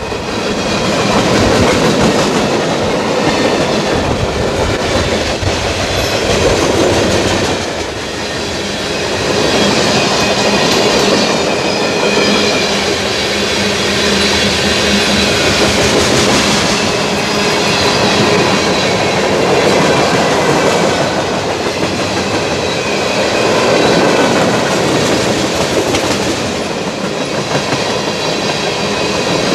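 Freight cars rolling past: steel wheels clattering over the rail joints with a continuous rumble that swells and eases as the cars go by, and a faint high wheel squeal at times.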